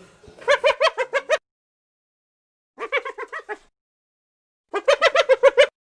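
An animal calling in three bouts of rapid, evenly repeated pitched notes, about eight to ten a second. Each bout lasts about a second, and the middle one is quieter.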